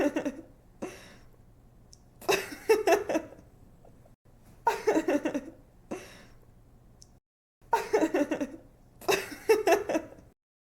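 A young woman giggling and laughing in repeated bursts about a second long, with short pauses between them. The laughter stops shortly before the end.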